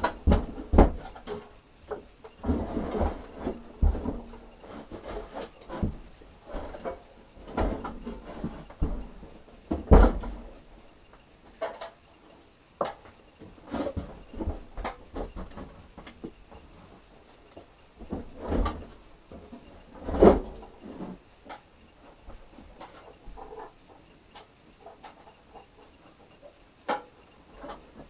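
Irregular knocks, clunks and short rattles of hard parts being handled and set down, with the loudest knocks about a second in, about ten seconds in and about twenty seconds in.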